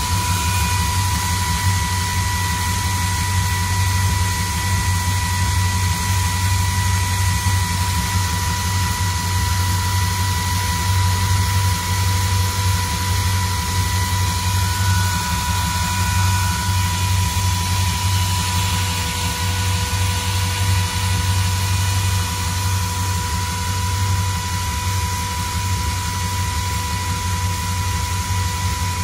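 383 stroker small-block Chevy V8 with Holley Sniper EFI idling steadily, a low even rumble with a steady high whine over it.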